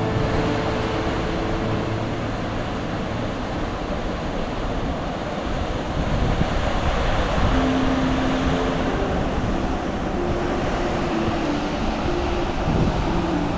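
Rushing water of a waterfall, a steady dense rush, with a few soft held music notes faintly beneath it.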